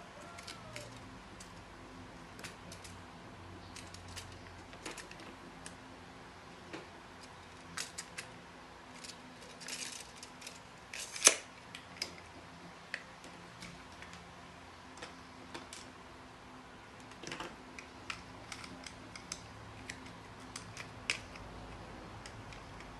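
Irregular small clicks and taps of hard objects being handled, with one louder click about eleven seconds in.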